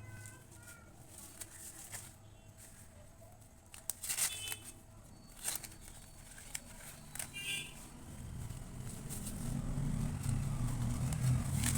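Corn husks crackling and tearing in several short, sharp bursts as a raw cob is peeled by hand, with a low rumble swelling in about two-thirds of the way through.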